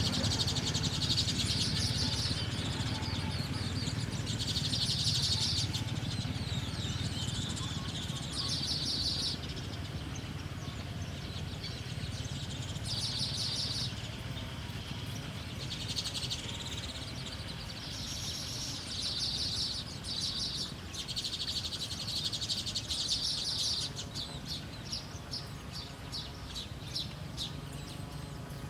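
Small bird chirping in rapid bouts of high notes, each about a second long, repeated every couple of seconds, over a steady low background rumble.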